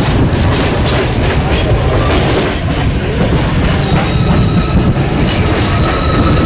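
Passenger train coaches rolling along the track at speed: a steady loud rumble of steel wheels on rail with clickety-clack. A faint thin wheel squeal joins in from a little past the middle.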